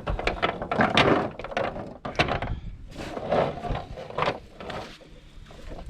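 Irregular knocks, thunks and rustling from a cast net and its weights being handled in a boat.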